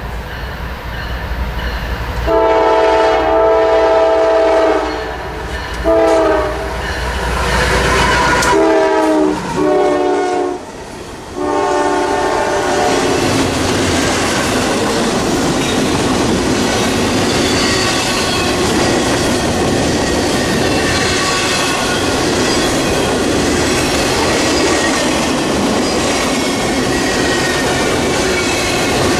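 Locomotive air horn sounding a series of chord blasts, one long and then several shorter, as a train approaches. After the last blast, about halfway through, the train passes with a steady rumble and clickety-clack of wheels on rail joints.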